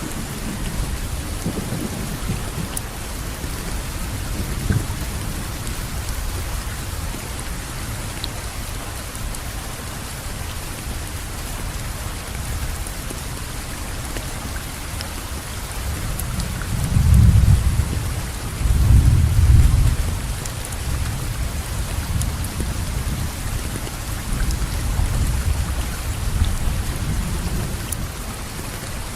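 Steady rainfall with low rumbles of thunder, which swell loudest about seventeen to twenty seconds in.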